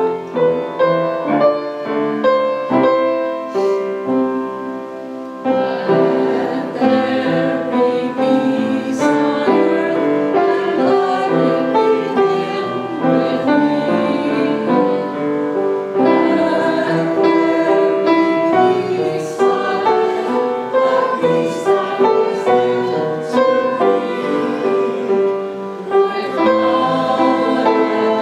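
A piano plays an introduction, then from about five seconds in a church congregation sings the closing peace song with the piano accompanying.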